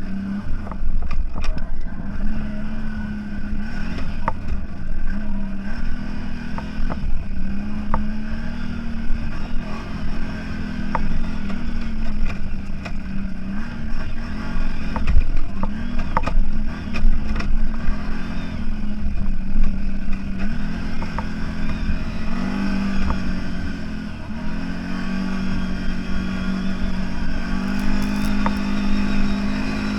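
Off-road vehicle engine working hard over rough ground, its note rising and falling again and again as the throttle is opened and eased, with scattered knocks and clatter from the vehicle.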